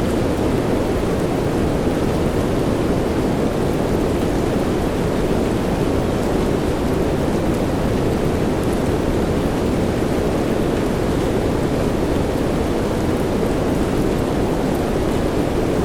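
Steady rain as a deep, even hiss with most of its weight low and no breaks, and a few faint drop ticks here and there.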